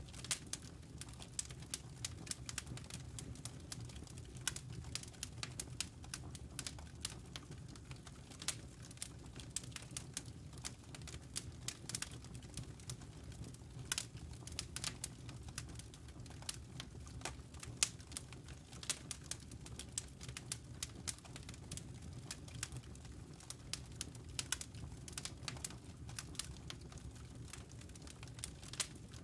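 Campfire embers and burning wood crackling and popping, with many irregular sharp snaps over a steady low rumble of the fire.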